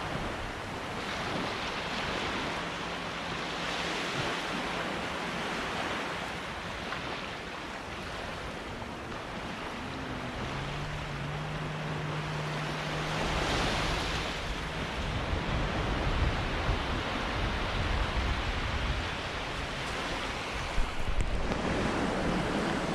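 Sea waves washing onto a beach, the surf noise swelling and falling every few seconds, with wind buffeting the microphone. A faint low steady hum comes in for a few seconds midway.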